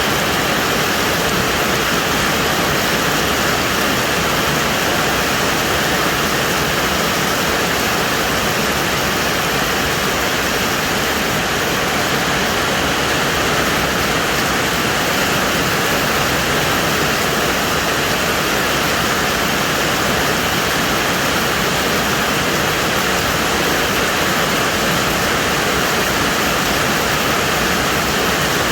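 Heavy storm rain pouring down steadily: a dense, even rushing hiss that does not let up.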